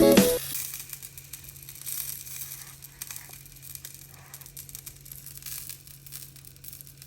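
Guitar music cuts off within the first half second, leaving faint, steady crackling over a low hum.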